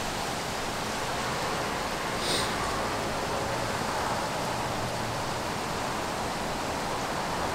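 Rain falling hard, a steady, even hiss.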